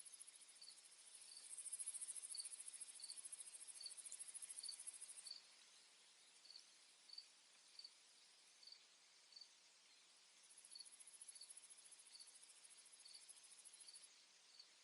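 Faint insect chorus. A cricket chirps evenly, about one and a half chirps a second, and a very high, thin insect trill comes in for stretches of a few seconds, breaking off about five seconds in and returning later.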